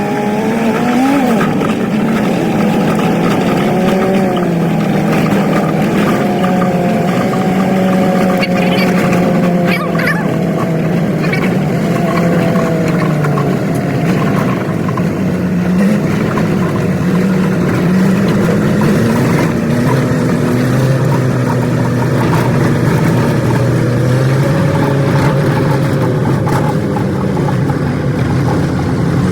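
Old truck's engine running while driving, heard from the cab, its pitch rising and falling with the revs and gear changes, with a few clunks about ten seconds in.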